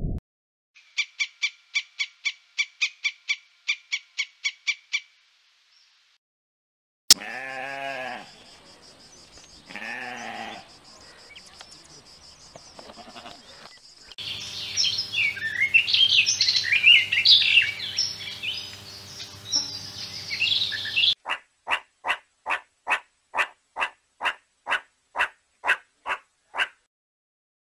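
Several different animal calls in turn: a run of quick repeated chirps, a lower call after a sharp click, a busy chatter of bird calls, then evenly spaced chirps about three a second.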